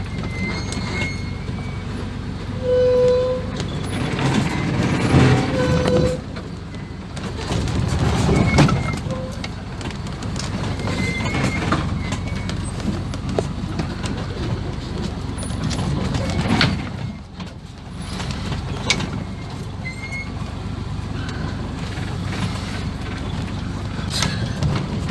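A 1980 Land Rover Series III running at slow speed as it crawls down a rocky 4x4 track. Occasional knocks and rattles come from the vehicle going over rough ground.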